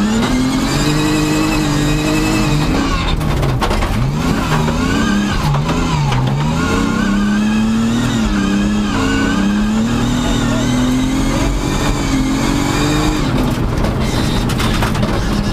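Rally car engine at high revs, heard from inside the cabin, pitch climbing and dropping back repeatedly as the driver shifts, lifts and accelerates along a gravel stage, with a flurry of rapid dips in revs a few seconds in.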